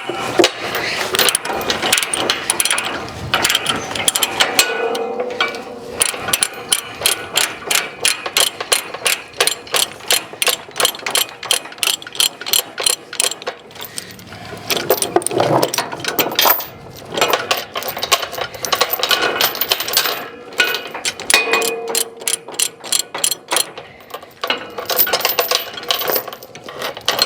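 Ratchet chain binder being cranked to tighten a load chain, its pawl clicking in quick, even runs with short pauses between strokes.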